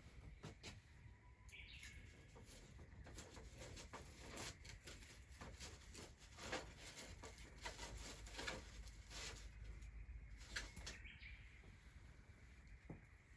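Faint, irregular crackling clicks and rustling.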